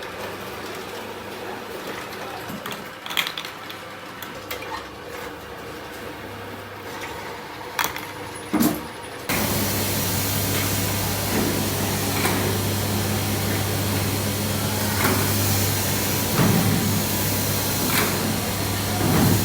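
Factory machinery noise: scattered clicks and knocks at first. About nine seconds in it switches abruptly to a louder, steady machine hum with occasional knocks.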